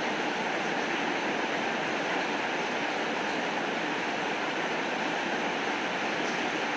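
Steady rainfall, an even unbroken hiss of falling rain.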